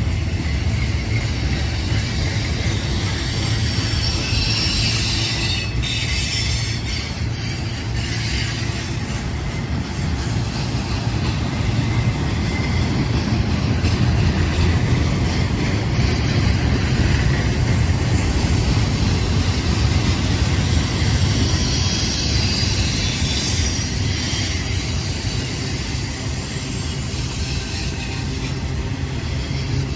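Freight train cars rolling past on the rails with a steady, heavy rumble. High wheel squeal swells up a few seconds in and again past the middle.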